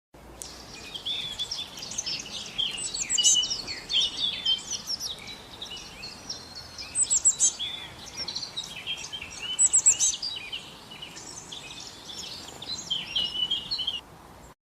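Birds chirping and calling: a busy run of short overlapping chirps with quick high whistles that fall in pitch, loudest bursts about 3, 7 and 10 seconds in.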